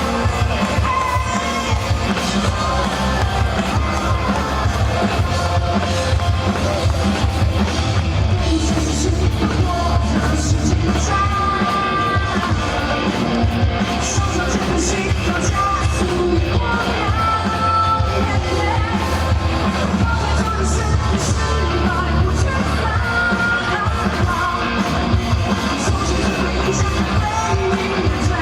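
Live rock band playing loudly, with amplified guitars, bass and drums under a lead vocal that sings and shouts.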